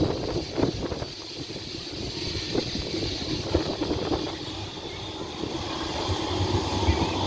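Tram running on street rails: a low rumble with scattered knocks from the wheels on the track, growing louder over the last couple of seconds as it draws near. Wind buffets the microphone.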